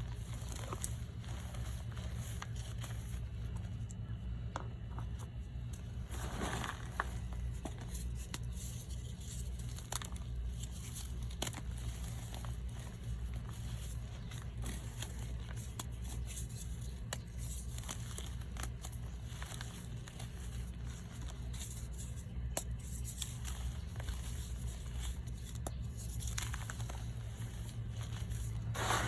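Re-pressed gym chalk and baby powder blocks being crunched and crumbled by hand, with scattered crackles and crisp clicks over a steady low hum.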